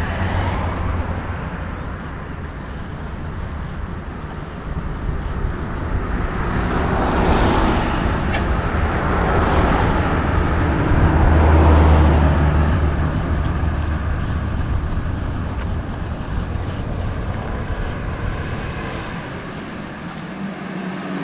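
Road traffic: motor vehicles passing on the street, with a deep engine hum swelling to its loudest about halfway through and then fading.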